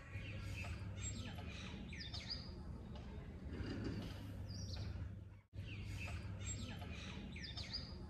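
Small birds chirping, a scatter of short rising and falling calls over a steady low hum. The sound cuts out for an instant about five and a half seconds in.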